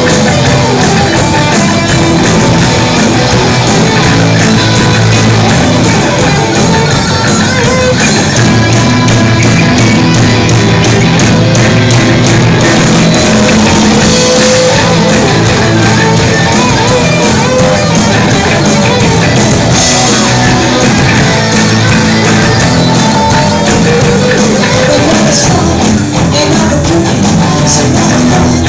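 Rock and roll band playing live and loud, with electric guitar to the fore.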